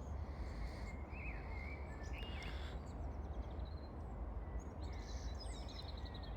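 Faint, short, high bird chirps in several brief bouts over a steady low background rumble.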